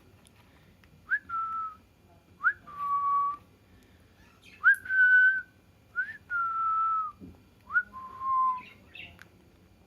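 Green parrot whistling: five separate calls, each a quick rising upslur followed by a held steady note, the pitch of the held note shifting slightly from call to call.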